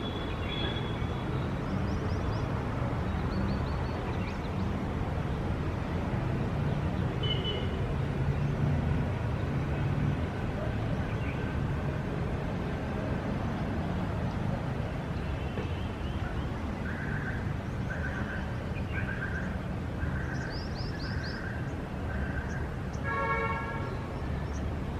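City street ambience: a steady low traffic rumble with birds chirping over it. In the second half there is a run of short repeated notes, and near the end a brief horn-like toot.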